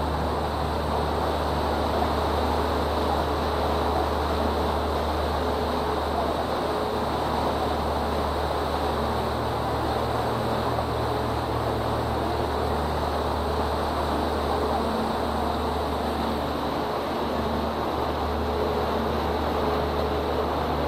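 Boat engine running steadily with a low hum and a few steady tones, under an even rushing noise.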